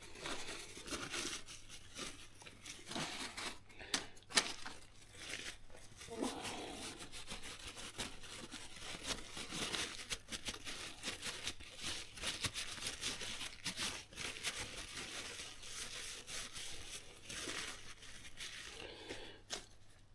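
Hands wiping and rubbing grit out of a motorcycle front wheel's dust seals and spacers, a faint continuous scrubbing rustle with scattered small clicks and knocks.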